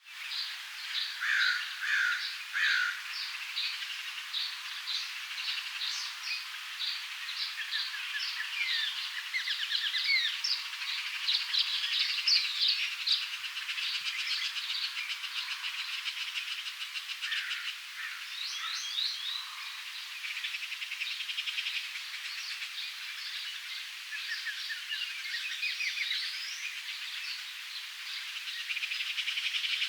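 Several small birds chirping and calling over one another, many short high notes and quick trills in a busy, continuous chatter.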